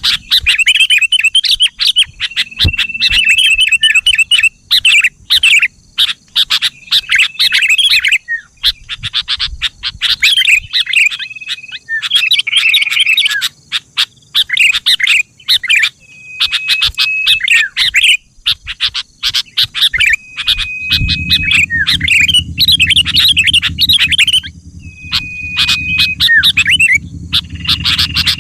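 Sooty-headed bulbul (kutilang) singing: repeated phrases of quick chattering notes alternating with clear, steady held whistles, with short pauses between. A low steady hum comes in about three-quarters of the way through.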